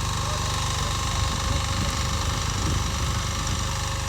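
Two-wheel walking tractor's engine running steadily with an even low chug. The low rumble swells for a couple of seconds in the middle, then settles back.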